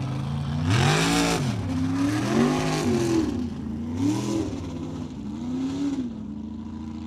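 Mud truck engine revving hard about four times, each time climbing in pitch and falling back, with a rushing noise at the peaks, then settling to a steadier run near the end.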